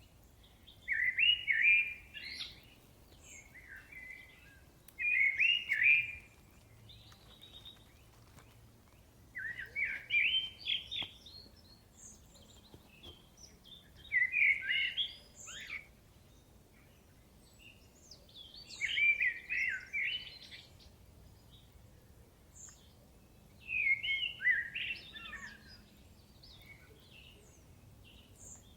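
A thrush singing short, loud phrases of rapid notes, each about a second or two long, with pauses of a few seconds between them. Fainter, higher calls from other birds come in between.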